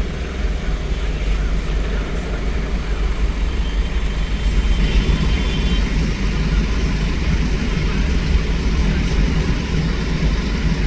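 A car on the move: steady low rumble of engine and road noise.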